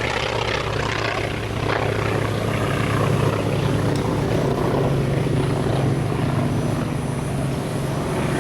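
T-28 Trojan's nine-cylinder radial engine droning as the airplane flies a pass, growing louder a couple of seconds in and holding steady.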